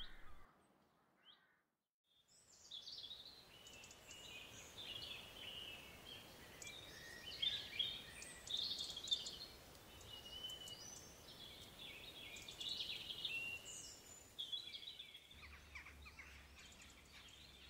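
Several small birds singing and chirping at once, short overlapping phrases and trills over a faint background hiss, beginning about two seconds in. A low steady hum joins near the end.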